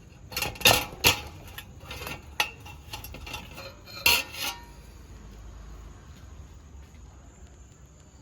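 Kitchen dishes and utensils clattering: a run of sharp clinks and knocks for the first four and a half seconds, then only faint background.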